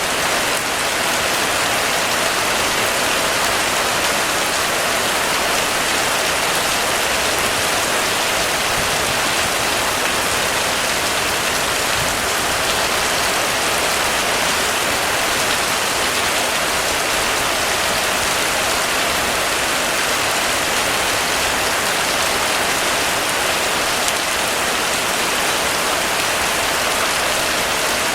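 Heavy rain falling steadily in a dense, even hiss of drops on surfaces.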